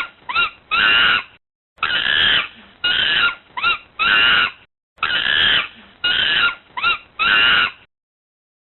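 Monkey calling: a group of four high cries that rise and fall in pitch, the third one short, played three times over in the same pattern, then stopping near the end.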